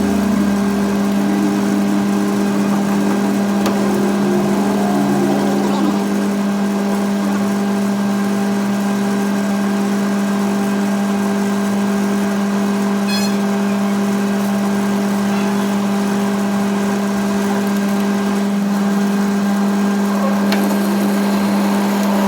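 A machine's motor running steadily with a constant hum, unchanging in pitch.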